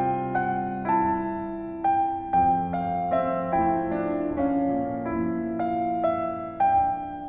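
Slow, gentle piano music: a melody of single notes struck about every half second over held chords.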